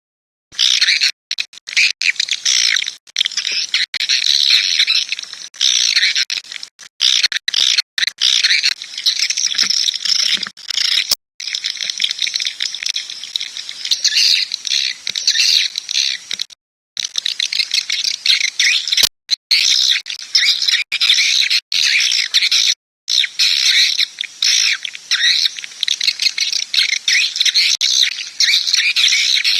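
Recorded swiftlet calls, a dense high chattering and twittering played as lure audio. The sound cuts out suddenly to dead silence many times and resumes just as abruptly, as in an edited recording.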